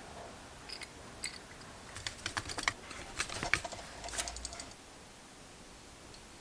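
A flurry of light, irregular clicks and taps, thickest toward the middle, with small hard objects being handled.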